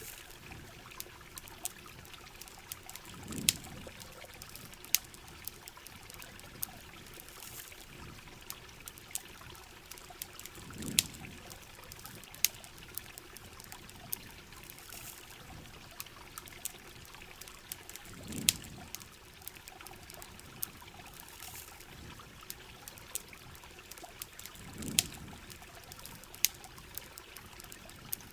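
Steady heavy rain with the sharp crackles and pops of a campfire scattered through it, and a low rumble that swells and fades four times, about every seven seconds.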